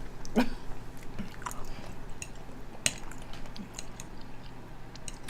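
Close-up chewing and wet mouth sounds of someone eating, with scattered small clicks and one sharper click about three seconds in.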